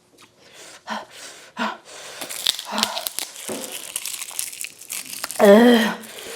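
Paper food packaging crinkling and rustling with small clicks as it is handled. Near the end there is a loud, wavering, drawn-out vocal 'oooh' lasting about half a second.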